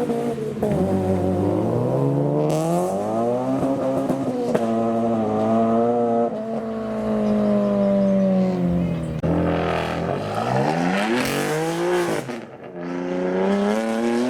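Modified cars' engines revving as they drive away one after another, the engine pitch climbing and dropping several times. About ten seconds in, a louder, raspier exhaust accelerates close past.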